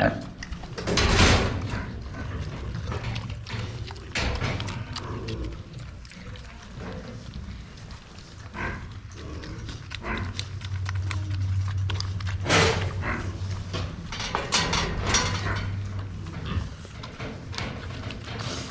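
Pigs grunting and moving about in their pen, with knocks and clatter throughout.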